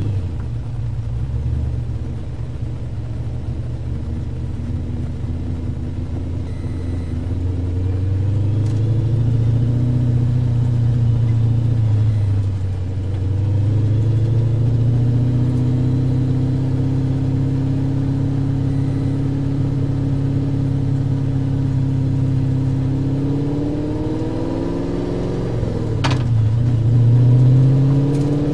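A car's engine recorded onboard, running at moderate, fairly steady revs with its pitch easing and climbing a few times as it is driven. Near the end there is a single sharp click, the revs dip briefly, then climb steadily as it accelerates.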